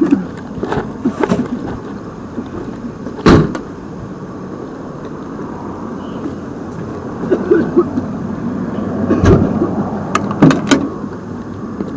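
Several sharp knocks or thumps over a steady low rumble, the loudest about three seconds in and a quick cluster near the end.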